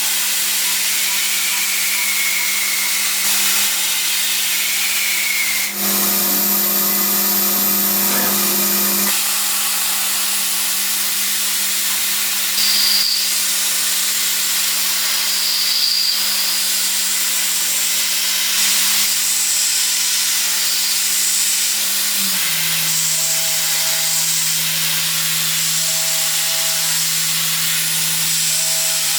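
Large machine tool running while cutting metal: a steady motor hum under a constant hiss. The hum drops to a lower pitch about two-thirds of the way through.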